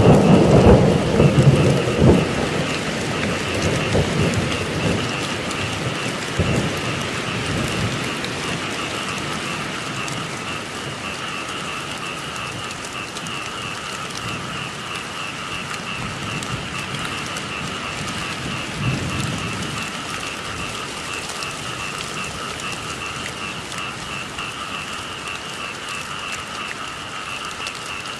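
Steady rain with thunder rumbling over the first several seconds, dying away, and a shorter roll of thunder about two-thirds through. Under it, a steady chorus of frogs calling in a fast pulsing trill.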